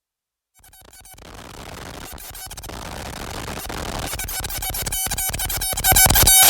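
Modular synthesizer patch (Make Noise Strega, Maths and Morphagene) run through Death By Audio Evil Filter and Absolute Destruction pedals: a distorted noise drone with a steady pitched tone. It fades in from silence about half a second in, repeatedly chopped by brief dropouts, and swells louder, with a sudden jump in level near the end.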